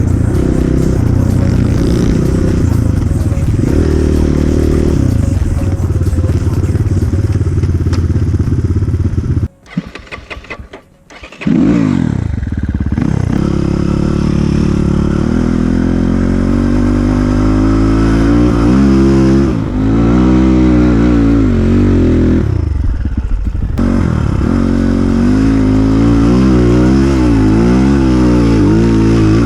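Enduro dirt bike engine running and revving over and over, its pitch rising and falling. About ten seconds in the sound drops away almost completely for a couple of seconds, then the revving comes back.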